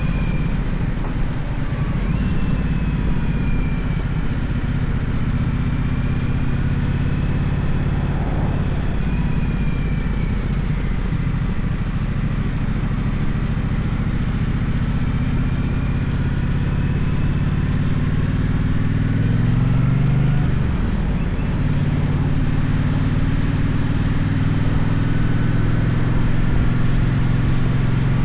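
Gaokin GK1200 motorcycle engine running under way, with rushing wind noise; the engine note rises and then drops about two-thirds of the way through.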